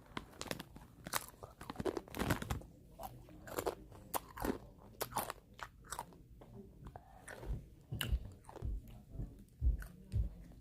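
A person chewing crunchy rolled tortilla chips (Doritos-flavoured Takis) close to the microphone: irregular crisp crunches and crackles as the chips break between the teeth.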